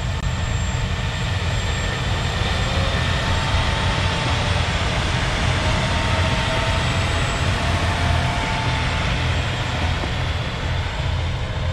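A Kuma River Railway KT-500 series diesel railcar running past, a steady drone with a faint whine that slides lower partway through.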